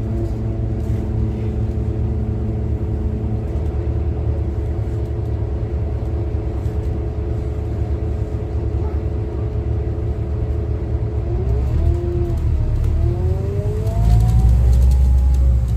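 Scania N250UD double-decker bus's five-cylinder diesel engine and driveline heard from the top deck: a steady run with a constant hum, then about three-quarters of the way through the bus pulls away, the whine rising and dipping as the automatic gearbox shifts. It is loudest near the end.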